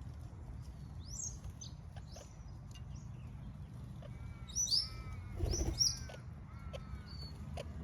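Red-capped parrots calling with short, sharp, high chirps and down-slurred notes, scattered at first and then a quick flurry about four to six seconds in. A brief low thump comes in the middle of the flurry, over a steady low rumble.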